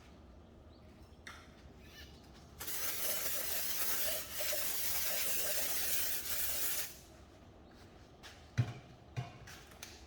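A steady pressurized hiss of air or spray lasting about four seconds, with a brief break partway through, followed by two short knocks.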